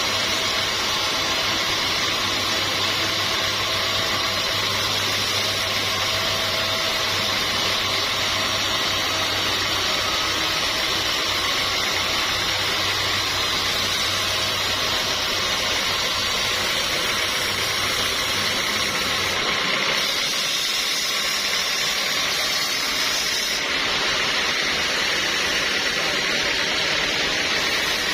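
Sawmill machinery running steadily with a loud, even hiss-like noise; a low hum underneath drops out about two-thirds of the way through.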